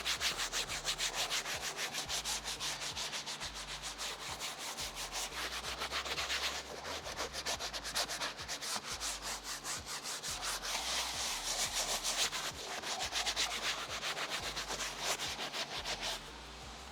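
Soft leather brush scrubbing the vinyl upholstery of a bass boat with cleaner, in quick, even back-and-forth strokes of about five a second. The scrubbing stops near the end.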